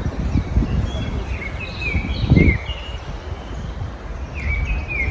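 Small songbirds chirping in short phrases of quick falling notes, about two seconds in and again near the end, over a steady low rumble.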